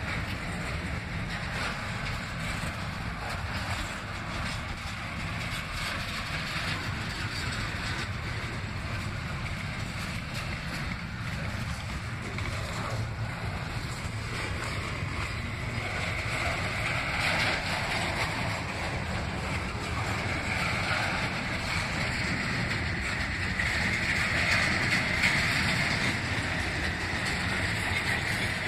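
CSX double-stack intermodal freight train, its container well cars rolling past on steel rails: a steady rumble and wheel noise, growing a little louder and hissier about halfway through.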